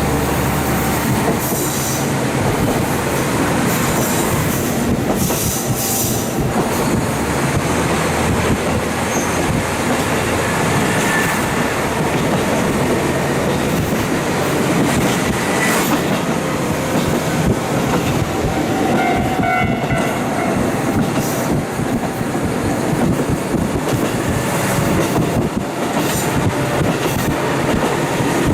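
KiHa 40 diesel railcar running at speed, heard through a fully open window: a steady rumble of wheels on rail with wind noise and light clicks over the rail joints. A brief wheel squeal comes about two-thirds of the way through.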